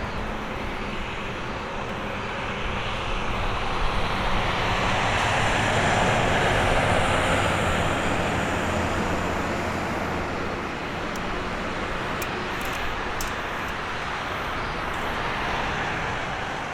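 Airbus A321neo jet engines during its landing at the airport: a broad rushing noise that swells about four seconds in, peaks, then eases to a steady level with a slight rise near the end.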